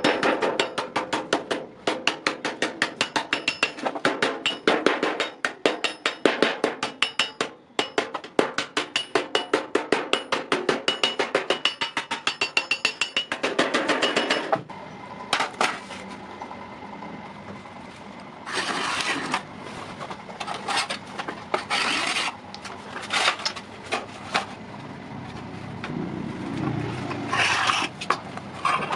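Hammer blows on iron, several a second with a metallic ring, stopping about halfway through; then a few short scraping sounds on the metal.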